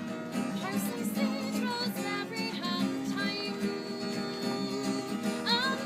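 Acoustic guitar music, plucked and strummed, with a singing voice gliding in near the end.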